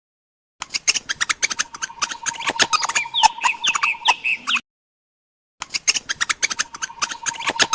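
Birds chirping and squawking in rapid, dense calls, in two bursts of about four and two seconds with a sudden silent gap between them.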